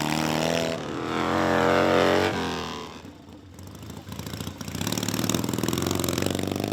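Vintage racing motorcycle engines revving hard: one climbs in pitch for about two seconds and cuts off sharply, and after a short lull another bike's engine builds up again.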